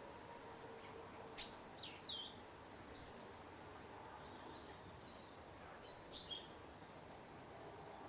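Small songbirds giving short, high chirps and quick falling call notes in two bouts, the first from about half a second to three and a half seconds in and the second around six seconds, over a faint steady background hiss.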